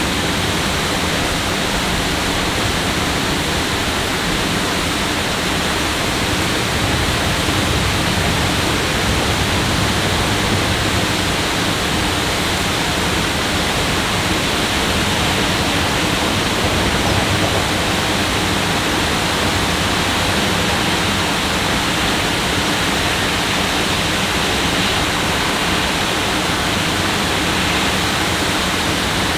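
Steady, unbroken rush of water, an even hiss at constant level with no distinct events.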